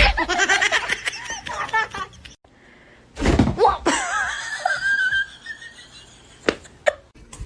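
People laughing in quick wavering bursts, in two stretches split by a short quiet gap. A loud sharp knock comes right at the start, and two clicks come near the end.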